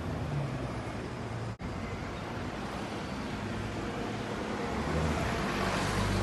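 A steady engine rumble, with a short break about one and a half seconds in and a swell of rushing noise near the end.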